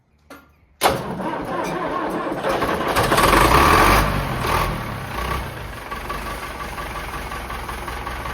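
Nuffield tractor's four-cylinder diesel engine (a 4/60 engine) starting from cold: it catches suddenly about a second in, runs loudly for a few seconds, then settles into a steady idle.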